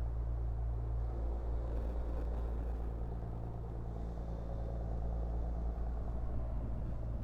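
Steady low mechanical rumble with a constant low drone, unchanging throughout.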